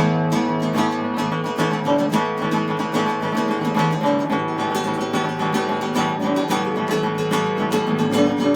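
Instrumental music played on plucked string instruments, a steady stream of quick notes over held lower tones.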